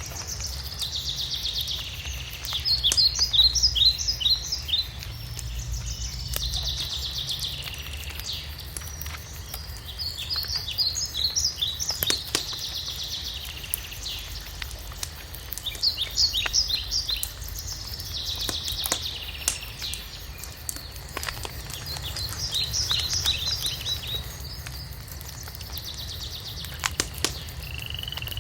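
A songbird repeating high phrases over and over, a buzzy trill alternating with a quick run of chirps every few seconds. Beneath it a wood fire crackles with scattered sharp pops.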